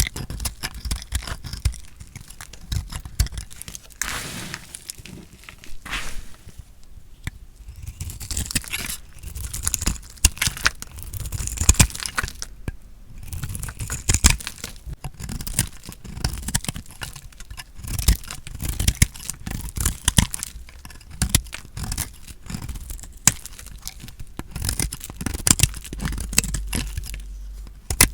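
A blade cutting through a bar of soap: a long run of short, irregular crunching and scraping strokes.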